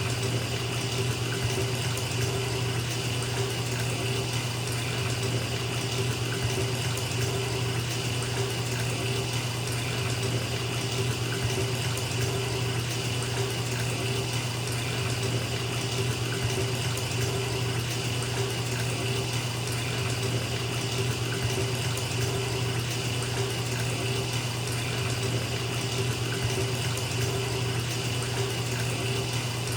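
Water running steadily from a tap into a filling bathtub, an even, unbroken rush.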